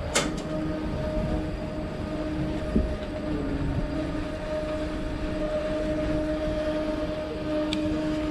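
Passenger train heard from inside the railcar: a steady low rumble with a constant hum, and a sharp click just after the start.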